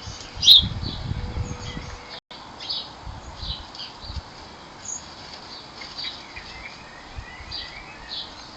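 Small garden birds chirping in short repeated calls, with one sharper, louder call about half a second in and a brief warbling phrase later on. A low rustling runs under the first two seconds, and the sound drops out for an instant just after.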